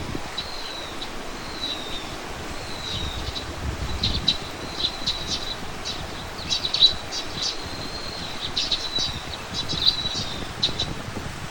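Small songbirds calling: a short, high, slightly falling note repeated about once a second, then from about four seconds in a busier flurry of quick chirps with a long thin whistle. A low, steady rumble runs beneath.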